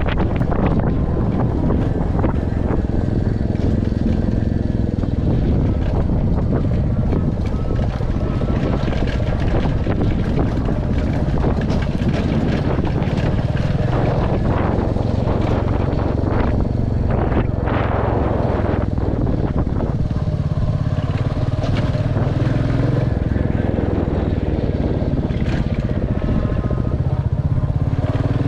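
Royal Enfield Classic 350 single-cylinder engine running under way, its pitch rising and falling a few times, with scattered short knocks.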